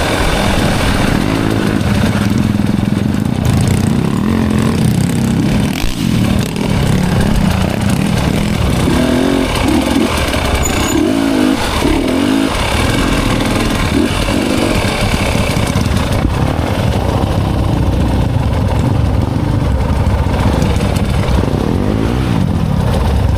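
Enduro dirt bike engine running while being ridden off-road, its engine note rising and falling with the throttle over a steady rushing noise.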